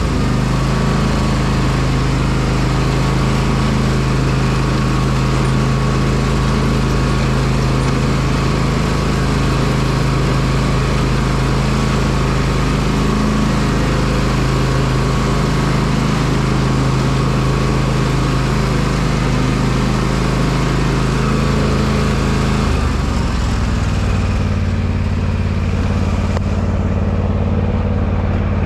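Small petrol engine of a garden power tool running steadily at constant speed. Its pitch shifts slightly about three-quarters of the way through, and the high hiss eases near the end.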